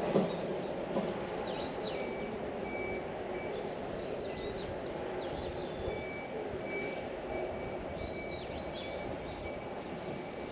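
A bird calling again and again, short high calls that rise and then dip, every second or two, over a steady low background rumble. A thin high steady tone comes and goes in short stretches.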